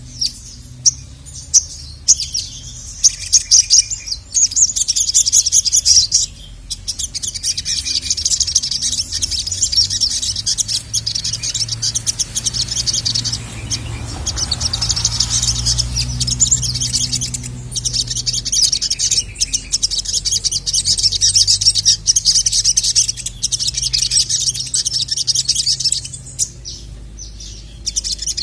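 Crimson sunbird (sogok ontong) singing: long phrases of fast, high-pitched chirps and trills, broken by short pauses, over a faint low hum.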